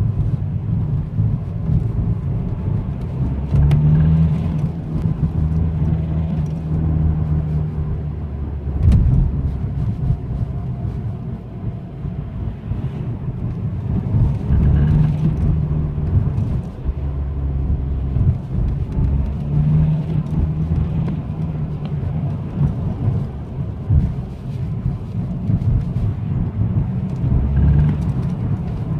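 BMW 123d's twin-turbo four-cylinder diesel engine pulling under acceleration and backing off several times, with low steady tones that swell for a few seconds at a time and then ease. It makes a strange noise that the owner cannot identify.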